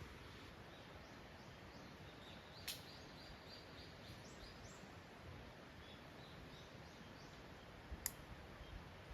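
Faint outdoor ambience: a steady soft hiss, with a small bird giving a run of short high chirps and two sharp clicks, one about a third of the way in and one near the end.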